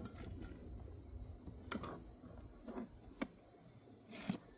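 A few light knocks and clicks of items being handled in a makeup storage case, the loudest near the end, over a faint steady high-pitched whine.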